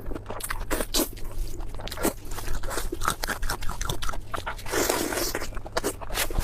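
Close-miked eating: a person chewing and crunching food in the mouth, a dense run of short, sharp crunches and wet mouth clicks, with a longer wet sound about five seconds in.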